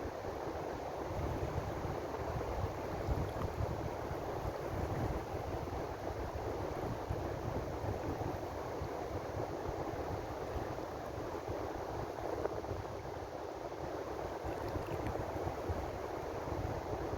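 Ocean surf washing steadily as an even rush of noise with a low rumble beneath it, no single wave crash standing out.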